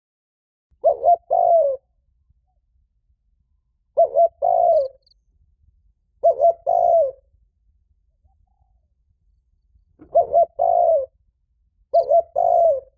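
Spotted dove cooing loudly, five calls spaced a few seconds apart, each two short notes followed by a longer drawn-out note. It is the male's rapid challenge cooing, the call given to provoke a rival to fight.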